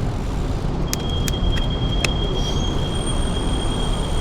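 Wind and rolling road noise from a bicycle ride. About a second in, a few sharp clicks and a thin, steady high-pitched squeal that holds for about three seconds, then stops.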